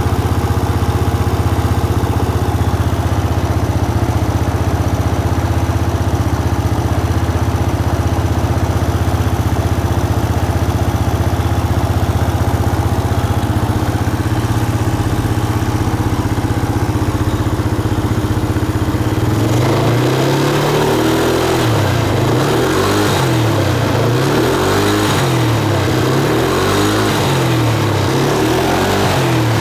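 Yamaha Cygnus X SR scooter's 125cc single-cylinder engine with an SP Tadao aftermarket muffler idling steadily. From about two-thirds of the way in, the throttle is blipped over and over, the revs rising and falling about every one and a half to two seconds.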